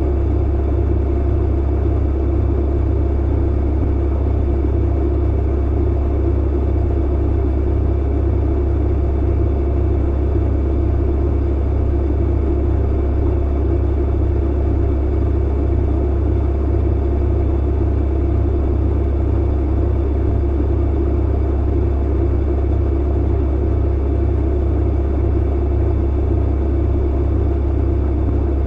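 Tumble clothes dryer running: a steady, unchanging low hum and rumble from its motor and turning drum.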